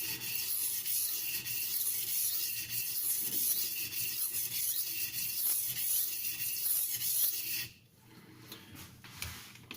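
Kitchen knife blade stroked back and forth on the wet 320-grit side of a silicon carbide sharpening stone, a steady rhythm of about one stroke a second. The strokes stop abruptly about three-quarters of the way through, leaving a few faint clicks.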